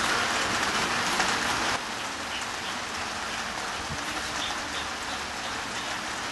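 Steady rain, an even hiss with a few faint drips, which drops in level about two seconds in and then holds steady.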